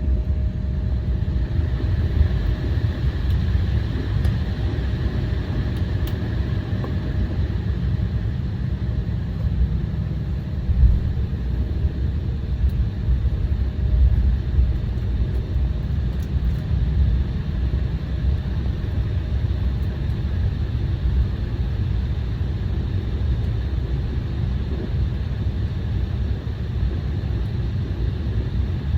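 Cabin noise of an Embraer 175 airliner taxiing: a steady low rumble of the jet engines at idle and the rolling airframe, with a few brief bumps from the wheels over the taxiway.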